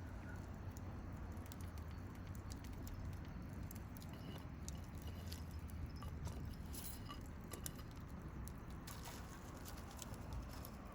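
Wood campfire crackling, with scattered small pops and snaps at irregular intervals.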